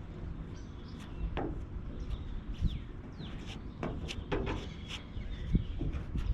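Birds chirping, short falling calls, mixed with a few brief knocks and scrapes over a steady low rumble.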